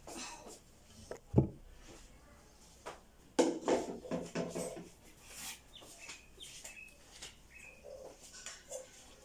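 A single thump about a second and a half in, then a short, low cooing call from a bird and a few faint, high chirps.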